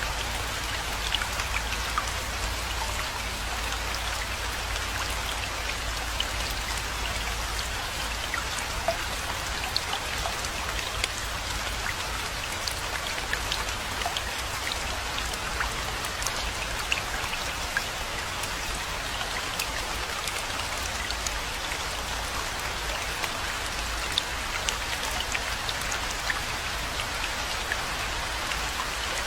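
Steady rainfall, many individual drops ticking on surfaces over an even hiss, with a steady low rumble underneath.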